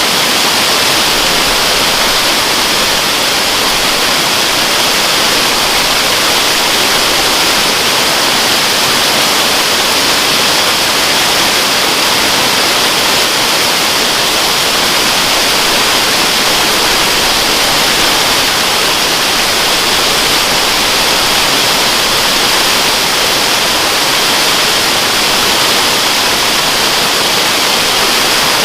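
Waterfall: a steady, unbroken rush of falling water, a dense hiss strongest in the upper-middle range, with little low rumble.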